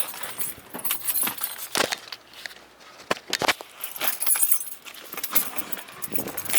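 Keys jingling along with scattered clicks and knocks, the sound of handling things inside a car.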